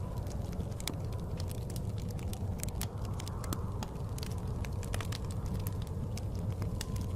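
Wood fire crackling in a fireplace, with frequent irregular sharp pops and snaps over a steady low rumble of blizzard wind.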